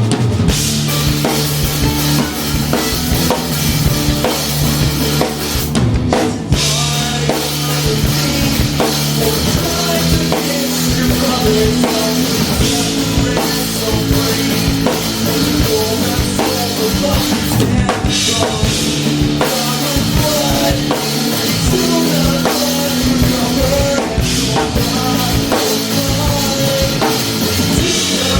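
Live rock band playing, heard from right beside the drum kit: kick drum, snare and cymbals loud and up front over sustained bass notes and the rest of the band, without a break.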